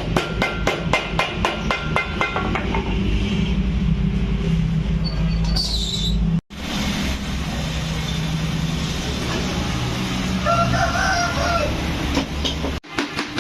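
Rapid hammer blows, about four or five a second, stop after a couple of seconds and give way to a steady low machine hum. A rooster crows once in the background near the end.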